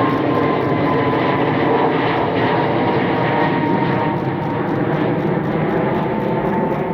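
Boeing 737 MAX 8 airliner's CFM LEAP-1B jet engines at takeoff power as it departs, a loud steady rushing with a whine that slowly falls in pitch as it passes.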